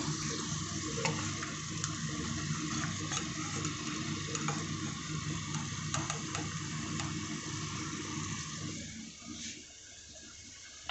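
Almonds sizzling and crackling as they deep-fry in ghee in a steel kadhai, with a steel ladle stirring and scooping them out. The sizzle drops away about nine seconds in.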